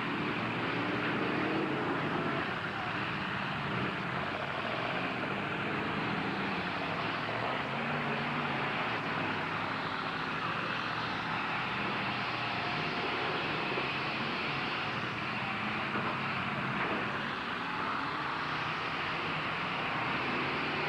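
Several truck engines running and revving, their pitch rising and falling several times over a steady, noisy din.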